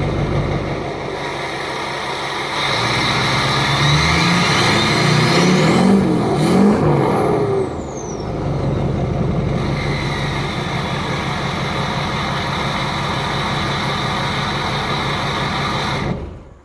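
2005 GMC LLY Duramax 6.6-litre V8 turbodiesel running through a straight 3.5-inch exhaust pipe with the muffler and catalytic converter deleted. It is revved up and down a few times about four to eight seconds in, with a high whistle rising and falling along with the revs, then runs steadily until the sound cuts off suddenly near the end.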